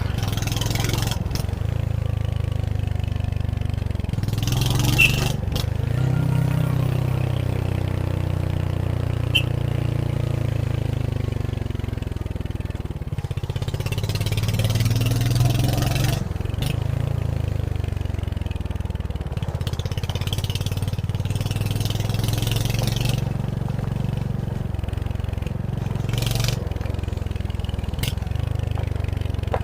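Royal Enfield Hunter 350's single-cylinder engine running on the move, its note rising and falling as the throttle opens and closes. Several bursts of hiss come and go over the top, with a few brief sharp clicks.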